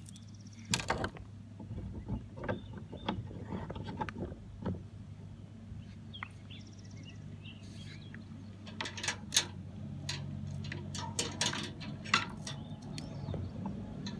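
Scattered clicks and knocks of small hard parts being handled and fitted together, busier in the second half, over a steady low hum.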